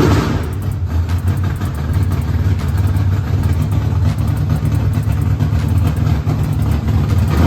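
1970½ Chevrolet Camaro's bored-out engine idling loud and rough on open headers with no exhaust, blipped once at the start and revved again near the end.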